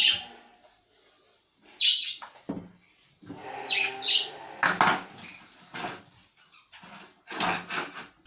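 Budgerigars chirping in short high calls, mixed with knocking and scraping from hands handling the cleaning.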